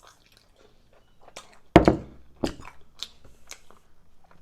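Close-miked chewing and mouth noises of a person eating, with scattered small clicks. A sharp, loud thump comes nearly two seconds in, then a smaller one.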